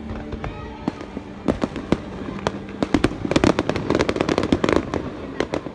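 Aerial fireworks bursting: scattered sharp bangs, then a dense run of crackling pops from about three to five seconds in.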